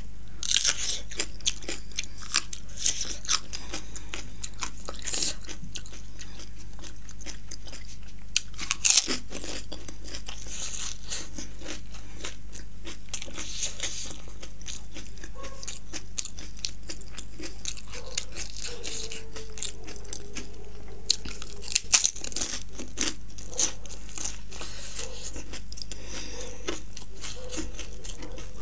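Close-miked eating: crunching, biting and chewing as a fresh green chilli and a crisp panipuri shell are bitten and chewed. There are dense small crunches throughout, with louder bites about nine seconds in and again about twenty-two seconds in.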